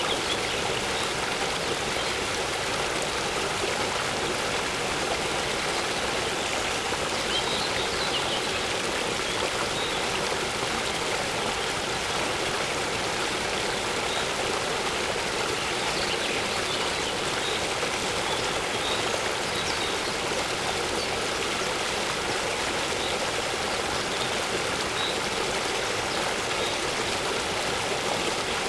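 Waterfall rushing steadily, an even unbroken sound of falling and flowing water, with faint short bird chirps now and then.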